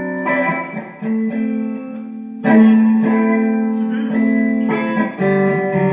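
Guitar accompaniment to a gospel song: a few chords struck and left to ring.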